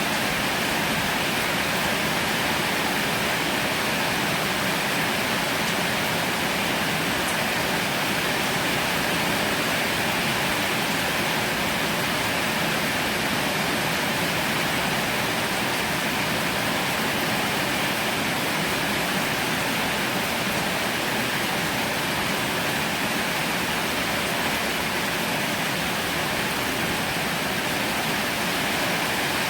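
Heavy rain falling steadily: a dense, even hiss with no thunder or other distinct sounds.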